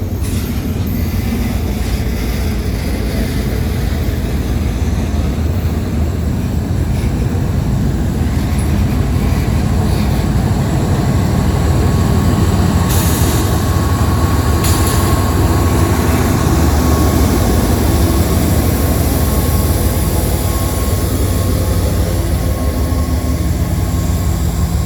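Long freight train passing close, its mid-train DPU diesel locomotive under power: a steady loud rumble of engine and rolling cars that swells a little past the middle. A faint, thin steady squeal joins about a third of the way in, and there are two brief sharp clanks a little past halfway.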